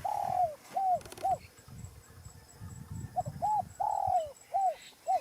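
Dove cooing: two phrases of short rising-and-falling coos, each built around one longer, drawn-out coo.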